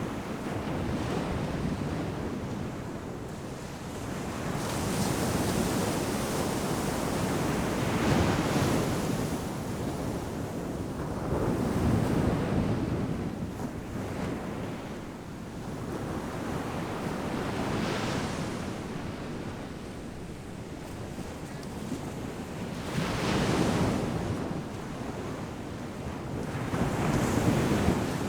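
Ocean surf: a continuous rush of waves breaking and washing ashore. It swells with a louder break every four to six seconds and falls back between them.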